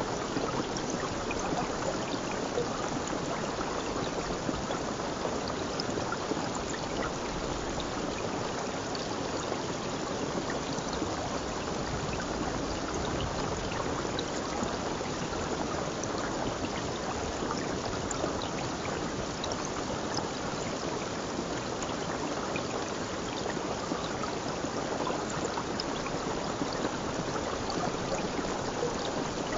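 Water flowing in a stream, a steady, even rush with small splashes and trickles throughout.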